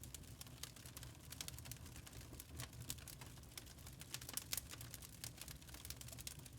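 Log fire crackling: quick, irregular pops and snaps of burning wood over a low, steady rumble.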